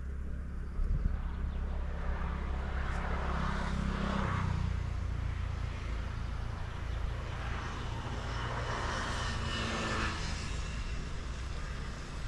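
An engine running with a steady low hum that drops in pitch about four seconds in, with two swells of hiss over it.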